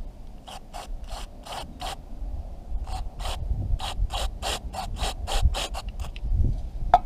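Aerosol carb cleaner sprayed in a series of short hissing squirts, in three runs, into a small-engine carburetor to flush out its jet, which had been clogged. A sharp click comes just before the end.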